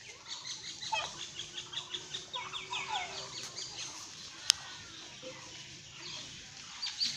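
Birds chirping, many quick high calls overlapping, with a single sharp click about four and a half seconds in.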